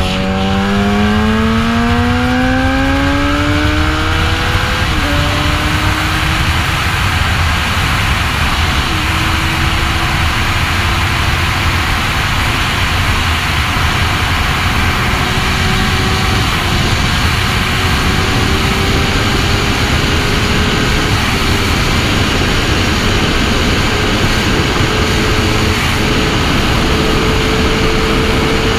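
Sport motorcycle engine under hard acceleration, its pitch climbing steeply with drops at upshifts about five and nine seconds in, then rising slowly in a high gear. Heavy wind rush on the microphone at speed.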